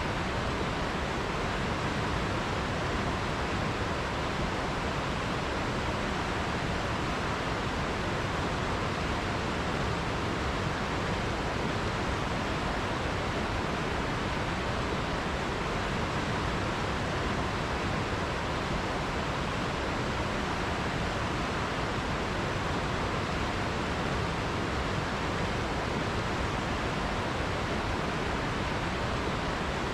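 River water flowing: a steady, even rush that doesn't change, with no separate splashes standing out.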